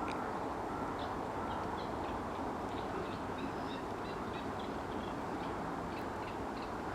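Small songbirds, a European robin among them, giving short high chirps and song phrases over a steady low background rush.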